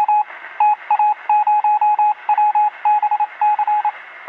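Morse code: a single beeping tone keyed on and off in quick short and long beeps, in groups with short gaps between.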